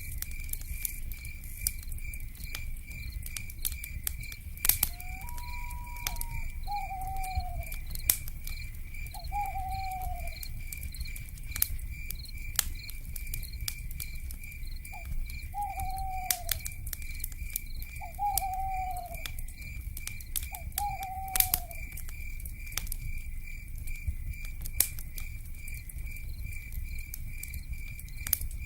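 Wood fire crackling with frequent sharp pops over a low rumble, under a steady, pulsing insect chirr. Between about 5 and 22 seconds in, an owl calls about six times, each a short note falling in pitch.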